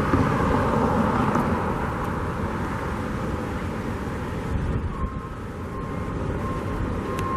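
Steady outdoor background noise of a city construction site, with wind buffeting the microphone. A faint, evenly repeated high beep starts about five seconds in.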